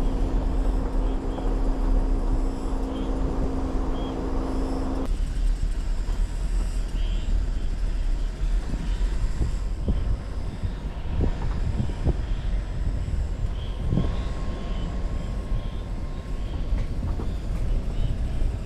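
Jeep Wrangler driving on an unpaved forest road, with a steady low engine and road rumble. A steady drone cuts off suddenly about five seconds in. After that, scattered low thumps sound over the rumble.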